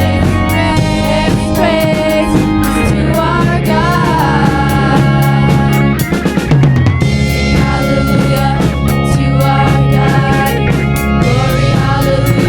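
Live band music: singing over drums, bass and electric guitar with a steady beat, with a short break about halfway through.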